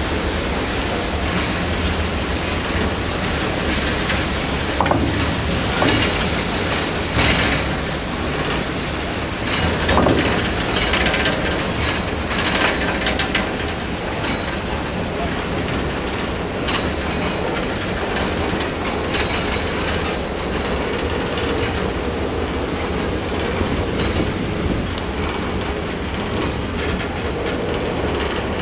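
Ballast train running along the track: a steady rumble with irregular clicks and knocks as the wheels pass over rail joints.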